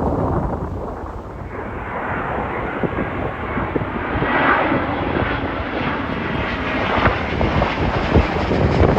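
Jet airliner passing low overhead on landing approach, its engine rush swelling to its loudest about halfway through, with strong wind buffeting the microphone.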